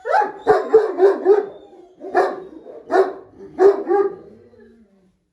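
Central Asian Shepherd Dog (alabai) barking: a quick run of barks, then single barks about a second apart, dying away near the end.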